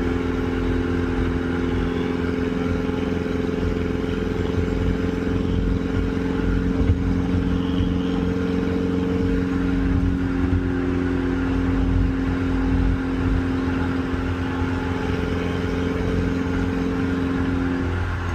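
Turbocharged Audi car engine running at a steady speed while driving, a constant drone over low road rumble with no revving up or down.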